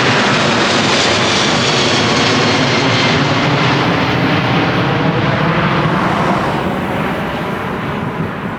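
Jet airliner's engines at takeoff power as it climbs out low overhead, a loud, rushing roar that fades near the end as the high hiss drops away.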